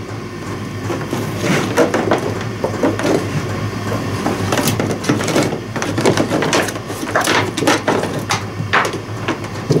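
Irregular clicks, knocks and rattles of things being handled and set down on a workbench, over a steady low hum.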